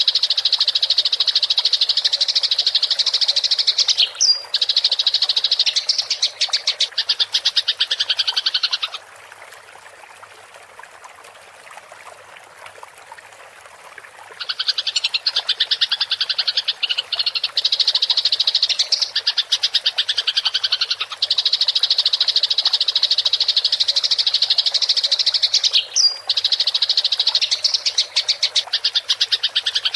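Eurasian tree sparrows giving rapid, rattling fighting chatter: long unbroken runs of fast, high-pitched notes. About a third of the way in, the chatter stops for roughly five seconds, then starts again.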